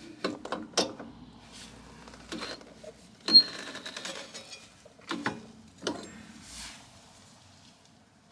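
Metal tools and parts clicking and clinking, a string of separate sharp knocks with one loud ringing clink about three seconds in.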